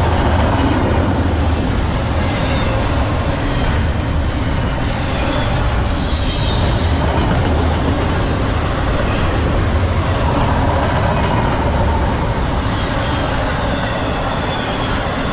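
Double-stack intermodal freight cars rolling past at about 48 mph: a loud, steady rumble of steel wheels on rail. Brief higher-pitched hissing surges come about five and six seconds in.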